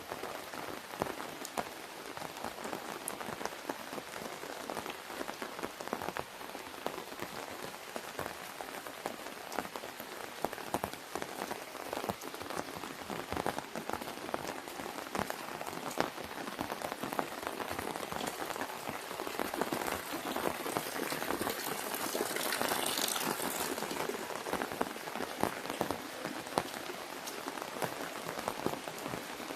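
Rain falling on an umbrella: a steady hiss with many separate drop taps. A louder, brighter hiss swells for a few seconds about two-thirds of the way through.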